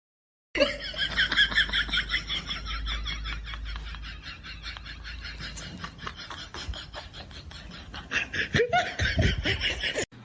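A person laughing hard, a long run of rapid high-pitched laughs that starts about half a second in.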